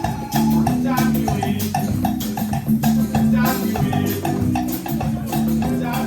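Live music with a steady, fast beat: shakers and drums from a Congolese percussion group over sustained pitched instruments.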